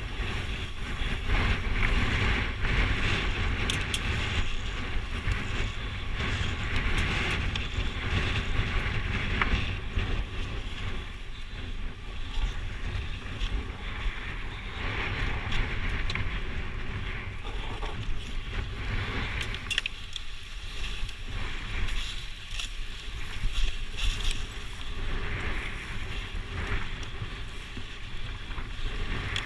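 Dirt bike riding on a trail, heard through a GoPro: wind buffeting the microphone over the engine and tyre noise, with a few short ticks.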